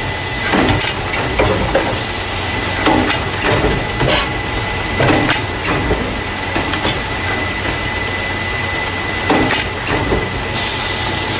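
Carton caser running, the factory machine that packs paper juice and milk cartons into plastic crates. A steady low hum and a thin high whine run under repeated knocks and clatter from the mechanism, with stretches of hiss about two seconds in and again near the end.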